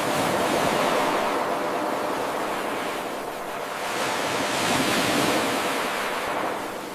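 Ocean waves washing onto a shore. The surf swells, eases about three seconds in, builds again a couple of seconds later and fades toward the end.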